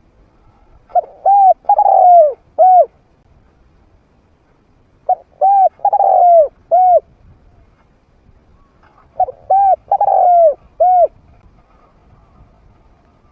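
Spotted dove cooing: three identical call phrases about four seconds apart, each four coos with the third one long and drawn out.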